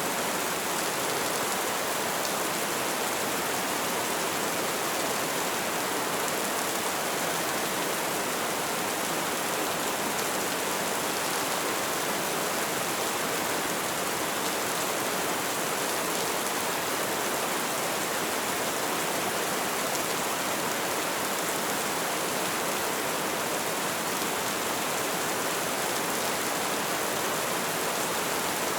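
Light rain falling steadily, a constant even hiss of drops.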